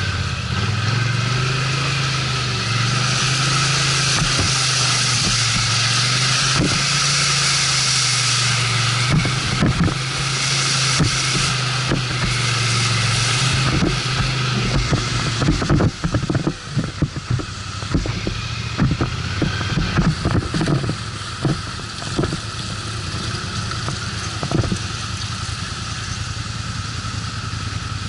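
ATV engine running at a steady throttle for about fifteen seconds, then easing off, with many sharp knocks and rattles through the second half as the machine rides over rough ground.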